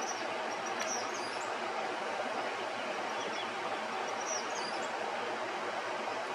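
Steady outdoor background noise with a few short, high bird chirps, one about a second in and another pair around four and a half seconds in.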